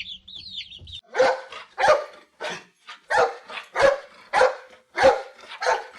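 A dog barking: a steady series of about eight barks, starting about a second in. Before the barks begin, a run of quick high bird chirps.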